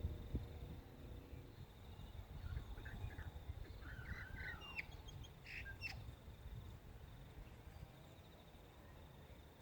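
Tui singing one short phrase of varied notes, with pitch glides and sharp clicks, from about two and a half to six seconds in.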